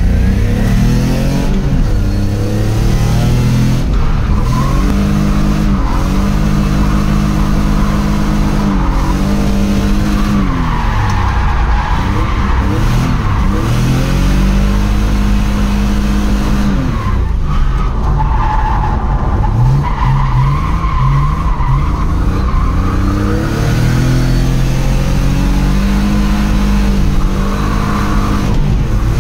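BMW E30 with a swapped-in M30B35 3.5-litre straight-six, heard from inside the cabin while drifting. The engine revs climb and drop again and again through the slides, and the tyres squeal in several stretches.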